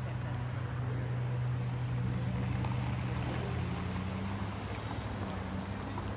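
An engine running steadily, heard as a low hum, with a second, higher tone joining in about two seconds in.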